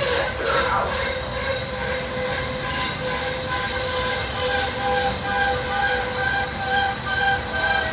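Loaded coal hopper cars rolling past on steel wheels with a steady rumble and a high squeal that pulses about twice a second.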